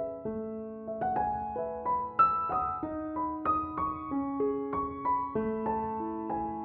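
Slow, gentle piano melody: single notes struck about every half second and left to ring over each other.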